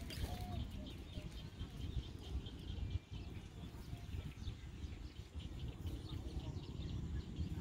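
Faint birds chirping over a low, uneven rumble.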